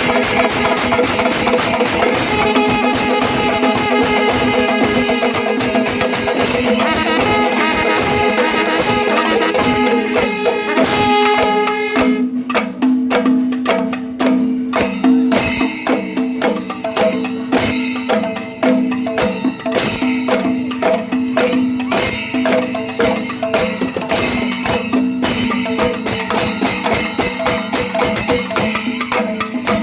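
Kerala temple percussion ensemble (melam) playing loudly: a dense stream of fast drum strokes and cymbal clashes over a steady held note. About twelve seconds in, the strokes become sharper and more separate.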